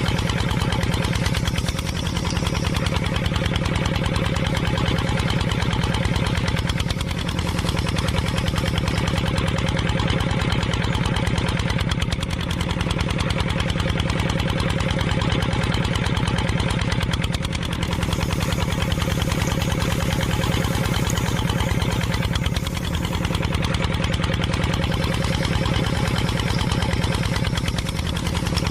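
Engine running steadily at idle with a constant low hum, dipping slightly about every five seconds.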